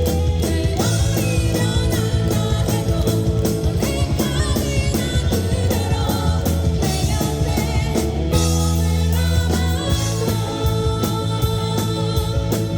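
Live rock band playing: drum kit keeping a steady beat under bass and electric guitar.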